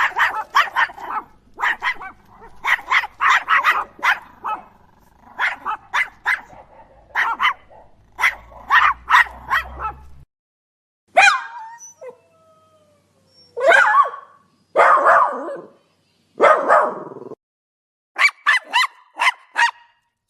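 Puppies barking in rapid clusters of short, high yips. Midway the yipping gives way to a few longer, drawn-out cries, then the quick yipping returns near the end.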